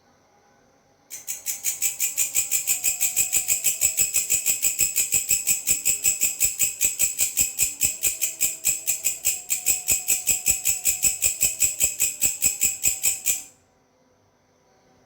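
Belalang (grasshopper) stridulating: a loud, high-pitched song of evenly repeated pulses, about six a second. It starts about a second in and breaks off suddenly near the end.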